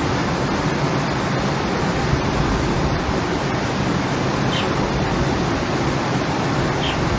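Steady rushing of floodwater, an even roar with no breaks.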